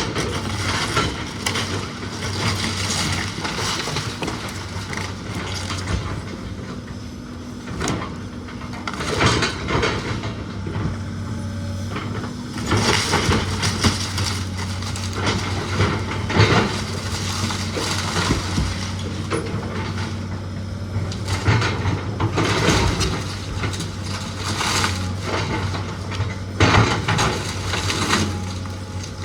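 A heavy machine's engine running steadily while demolition debris is crushed, with repeated bouts of cracking and crunching wood.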